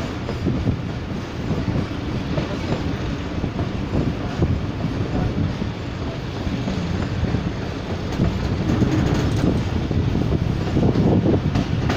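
Passenger train running on the track, heard from a coach window: steady rumble and clatter of the coaches' wheels on the rails, growing louder near the end.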